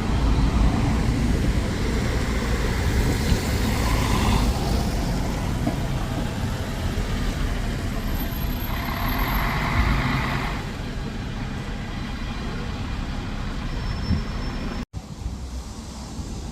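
Road traffic dominated by heavy vehicles such as buses: a steady low engine rumble with two louder passes, about three seconds in and about nine seconds in. The sound cuts out abruptly near the end.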